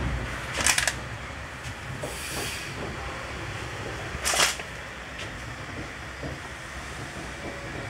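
Sampoorn Kranti Express sleeper coach heard from inside as the train runs: a steady low rumble, broken by two brief loud noises about a second in and just past the middle.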